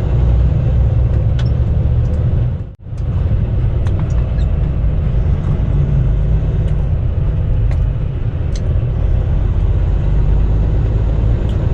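Semi-truck heard from inside the cab while driving: a steady low drone of diesel engine and road rumble, with a brief dropout about three seconds in.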